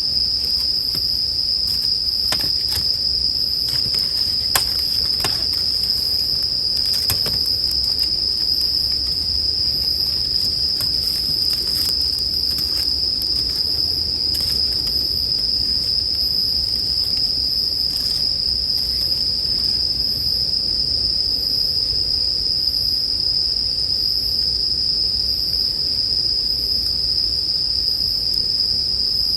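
Bell crickets (suzumushi) singing in a steady, unbroken high-pitched chorus, with scattered small crackles and pops from a wood campfire, mostly in the first two-thirds.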